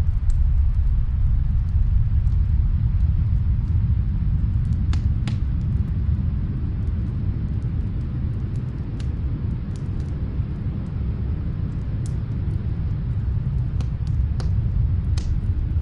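Snowstorm wind as a steady low rumble, with sparse faint crackles and pops of a wood fire heard from another room.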